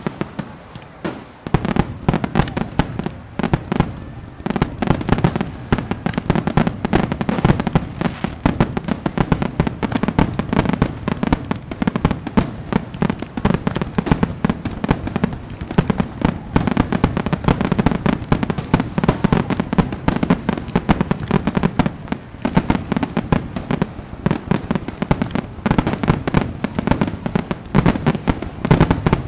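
Fireworks going off in a dense, continuous barrage of rapid overlapping bangs and crackles, a little thinner for the first second or so.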